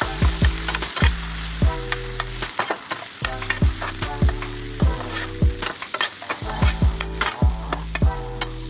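Metal spatula scraping and knocking against a wok or pan while food sizzles in hot oil, with sharp strikes every half second or so. It sounds like fried chicken pieces being stirred and tossed through the tadka.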